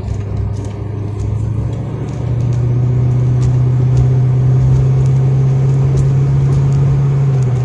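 Car engine and road noise heard from inside the cabin while driving. The engine drone rises in pitch about two seconds in, holds steady, then drops back near the end.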